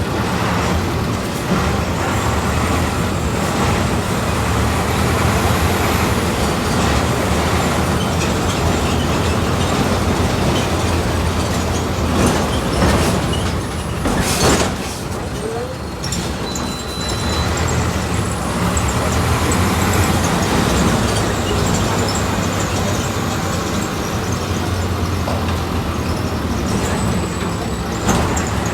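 Volkswagen 17.230 OD bus engine running on the move, heard from inside the bus, its note rising and falling with the driving. A brief sharp noise about fourteen seconds in stands out above the engine.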